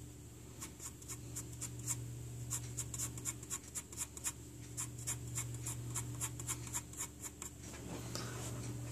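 Pencil on paper making quick short scratchy strokes, roughly three a second with brief pauses, as shading lines are hatched in.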